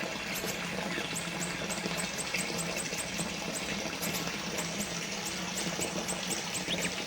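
Small water fountain trickling and splashing steadily, over a steady low hum, with rows of short faint high chirps or ticks repeating several times a second.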